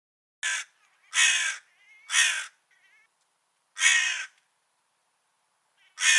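Crow cawing: four single caws at uneven gaps over the first four seconds, then a fifth starting near the end.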